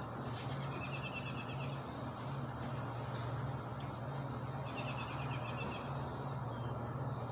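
A songbird singing two short, fast trills of rapidly repeated high notes about four seconds apart, over a steady low hum and background noise.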